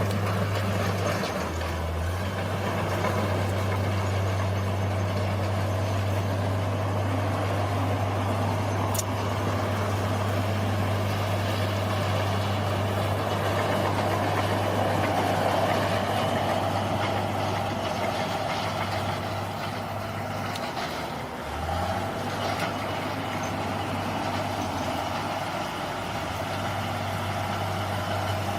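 Bulldozer's diesel engine running steadily under load, its low engine note dipping briefly twice, once about two seconds in and again about two-thirds of the way through.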